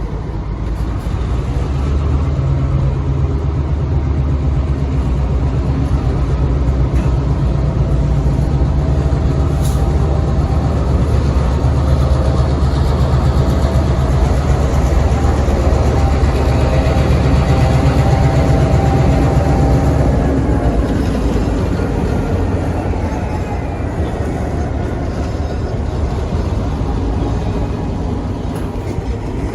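EMD diesel locomotive engine running steadily as the switcher moves a cut of autorack cars, with a deep engine drone. The drone eases off and fades about two-thirds of the way through.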